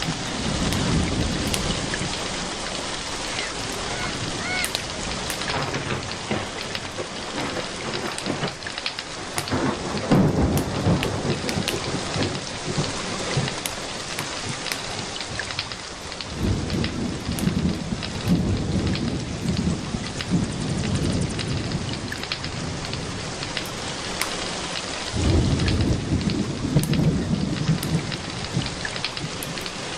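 Steady rain with thunder rumbling low, about ten seconds in and through most of the second half. Small sharp crackles of a wood fire sound over it.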